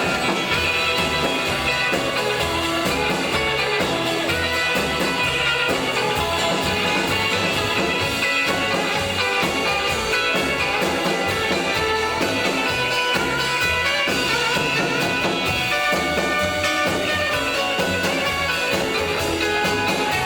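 Live rockabilly band playing an instrumental passage of a slow rock-and-roll number, with no vocals and a steady beat.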